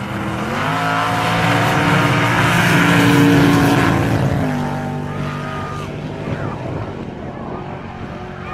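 Hot rod coupe's engine revving hard as it launches down a drag strip. The pitch climbs over the first few seconds, drops about four seconds in, and then fades as the car pulls away.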